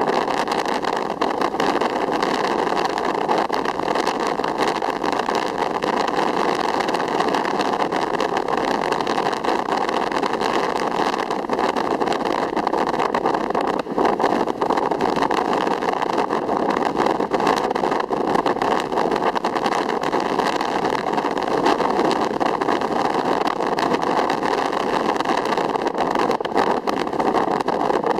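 Steady rushing noise of the sea, an unbroken wash without distinct wave breaks.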